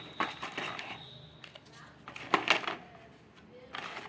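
Small clicks and knocks of the kit's wooden pieces being handled, with a cluster of louder knocks a little past two seconds in. A faint steady high whine runs through the first second and a half.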